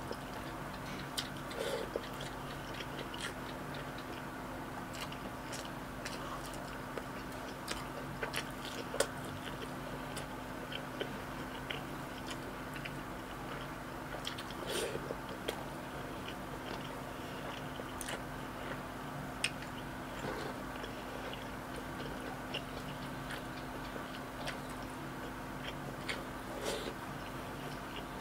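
Close-miked chewing of a mouthful of rice and ground pork, with frequent small wet clicks and lip smacks scattered irregularly throughout.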